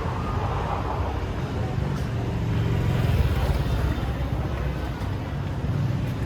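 Steady low rumble of street traffic, motorbikes and cars passing, with faint voices mixed in.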